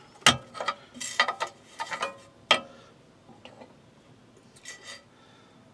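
Light clicks and taps of metal parts being handled on a scroll saw as its table insert plate is taken out. There is one sharp click just after the start, a run of smaller clicks over the next two seconds, and a few faint taps near the end.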